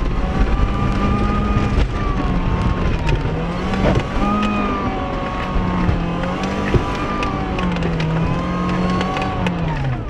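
Mercedes car engine running under load on a dirt road, its note rising and falling several times as the throttle changes, heard from inside the cabin. A few sharp knocks come from the car running over the rough track.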